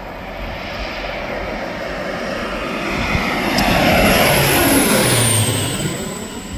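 Crop-dusting airplane flying low right overhead: its engine noise builds to a peak about four to five seconds in, then drops sharply in pitch and fades as it passes, with a high whine falling in pitch along with it.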